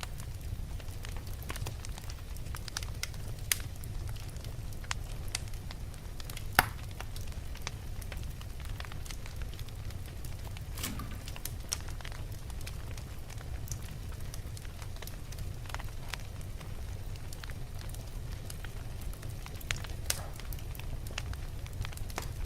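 Wood fire burning in a fireplace: a steady low rumble of the flames with scattered sharp crackles and pops, the loudest pop about six and a half seconds in.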